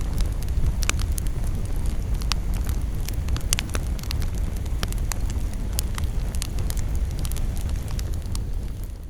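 Campfire burning, with frequent sharp crackles and pops of burning wood over a steady low rumble. The sound fades down near the end.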